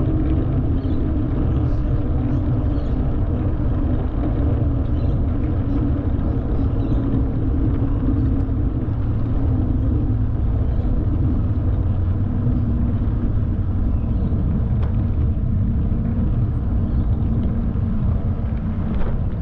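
Mountain bike tyres rolling on pavement: a steady low rumble and hum with no break.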